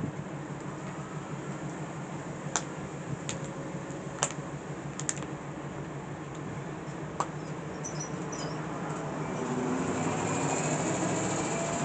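Alco C420 diesel locomotive engine running steadily, with a handful of sharp clicks in the first half. The sound grows louder over the last couple of seconds.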